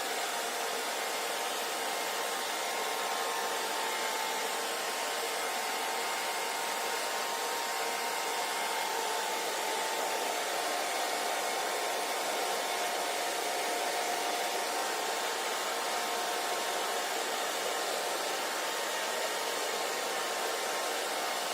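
Hair dryer running steadily: an even rushing noise of blown air with a faint steady whine from the motor.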